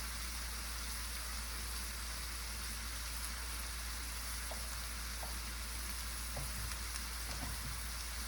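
Onions and zucchini sizzling steadily in a frying pan, with a few faint ticks in the second half.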